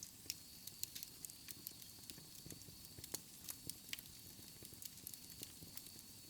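Wood fire crackling in a fireplace: irregular sharp snaps and pops, some louder than others, over a faint hiss.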